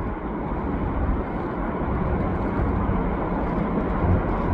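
Steady low vehicle rumble, slowly growing louder.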